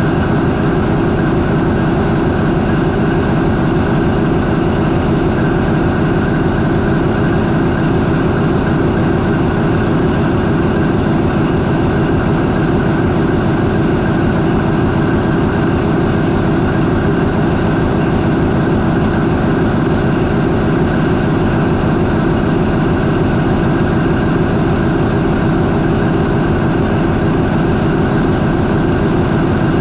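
MAN 20V28/33D STC twenty-cylinder V marine diesel, a ferry's main propulsion engine, running steadily at its 400 RPM idle. Loud, even, rapid firing pulse with a steady hum and no change in speed.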